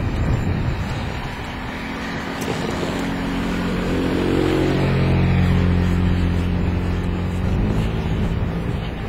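A motor vehicle's engine passing close by, swelling to its loudest about halfway through and then fading, with wind buffeting the microphone.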